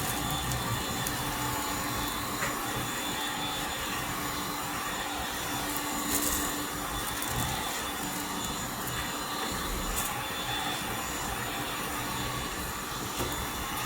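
A woodworking machine running steadily: an even mechanical hum with a constant low tone and a few light clicks.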